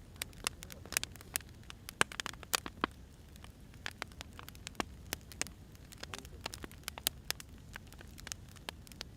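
Wood fire crackling: irregular sharp pops and snaps over a low steady hiss, busiest in the first few seconds.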